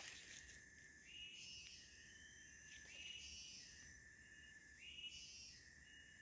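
Faint, high-pitched animal calls: held tones that step up and down in pitch, repeating every second or two.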